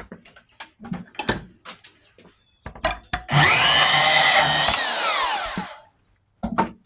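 A few sharp clinks and knocks of metal pieces being handled, then a bandsaw runs for about two seconds, cutting a copper thermostat rod, and its whine falls away as the motor is switched off and spins down.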